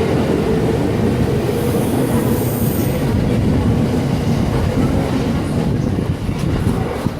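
JR East 209 series 500 subseries electric commuter train pulling out of a station, its cars rolling past with a steady wheel-on-rail rumble and clatter. A brief high squeal comes about two seconds in, and the noise eases a little near the end.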